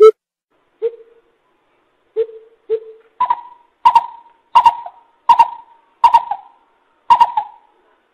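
Coucal calling in a series of hollow hoots. A few scattered low hoots come first, then from about three seconds in a slower, regular run of higher, sharper notes, about one and a half a second.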